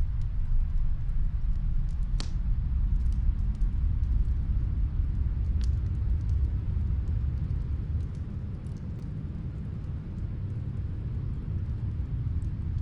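Snowstorm wind as a deep, steady rumble, with a few faint crackling pops from a fireplace in another room, the clearest about two seconds in.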